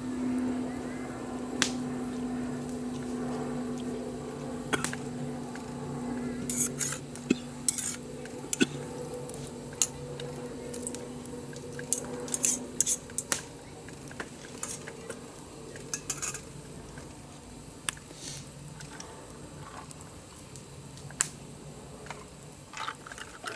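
Scattered clinks and taps of tableware and utensils against bowls and a pot while eating from a hot pot, over a steady low hum that fades out about halfway through.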